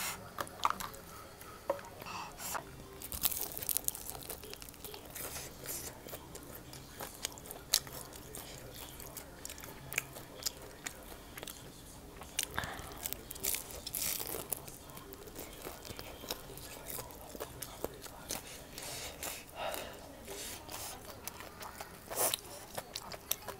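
A person chewing and biting food, with crunching and many small, irregular mouth clicks.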